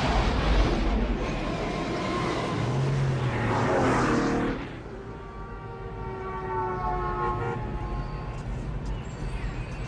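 Vehicle traffic: a loud rush of a vehicle going past, then steadier road noise with several steady tones held over it through the middle.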